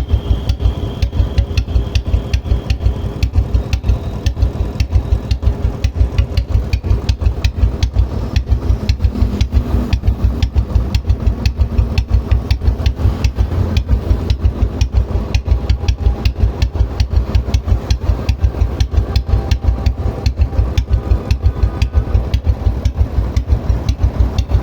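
Royal Enfield Bullet's single-cylinder engine idling, with an even beat of about four firing thumps a second.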